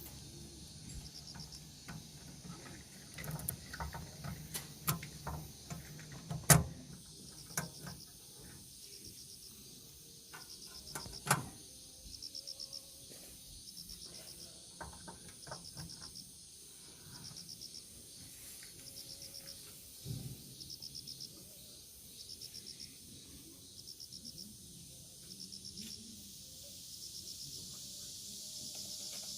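Insects chirping in short, high, pulsed calls that repeat about once a second. Scattered clicks and knocks fall in the first third, and the two loudest sharp knocks come about six and eleven seconds in.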